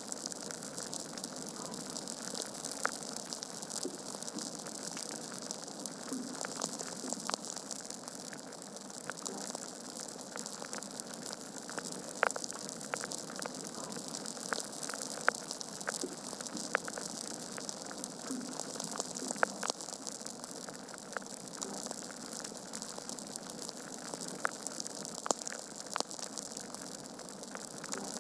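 Wood fire crackling in a fireplace: a steady hiss of burning logs with sharp pops and snaps scattered irregularly, a few louder than the rest.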